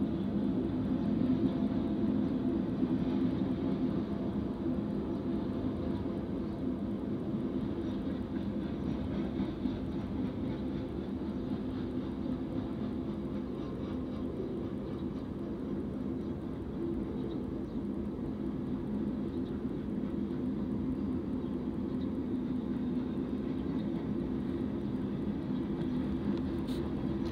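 Freight cars of a manifest train rolling past on the rails: a steady rumble with a low hum, slightly louder in the first few seconds.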